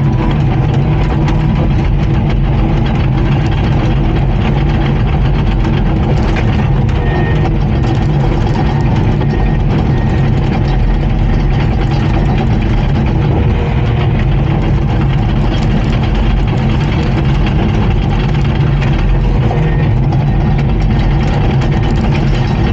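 Komatsu D39PX bulldozer's diesel engine running steadily.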